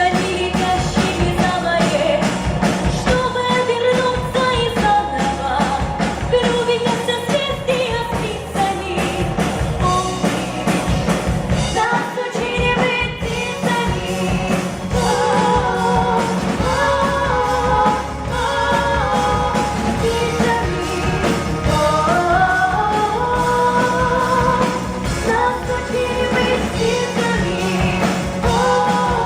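Female voices singing a pop song over a full instrumental backing track with a steady beat; the sung notes waver with vibrato.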